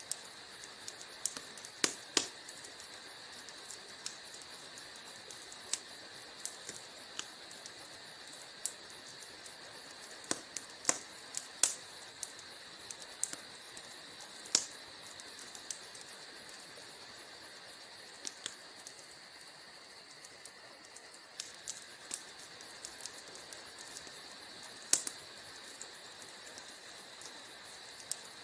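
Wood fire burning in a fireplace: a steady soft hiss with irregular sharp crackles and snaps, a few of them loud pops.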